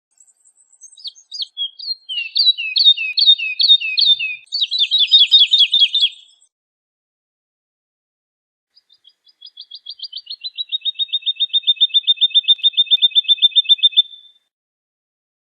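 Woodlark singing two phrases of its song. The first is a run of varied notes that speeds up into a rapid stutter. After a pause of about two seconds comes a long even trill of repeated notes that grows louder, then stops.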